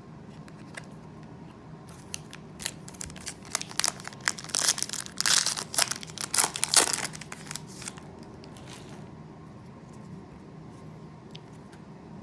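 Foil wrapper of a Panini Prizm basketball card pack being torn open and crinkled by hand: a run of crackly rustles starting about two seconds in, loudest in the middle, dying away about eight seconds in.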